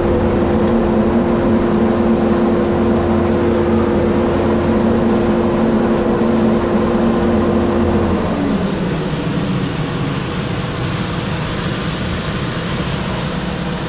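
Large machinery running steadily, with a steady hum tone in it that slides down and fades about eight seconds in while the broad running noise carries on.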